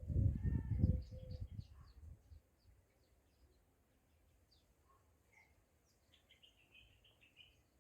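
Small birds chirping: many short, high chirps scattered through, and a rapid trill near the end. About the first second is covered by a louder low rumbling noise that fades out.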